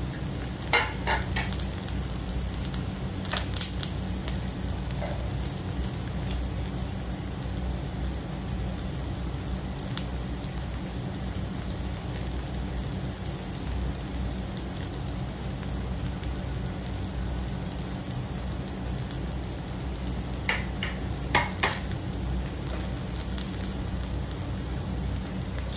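Chopped onions and garlic sizzling steadily in hot oil in a wok, with a few short sharp crackles about a second in and again near the end.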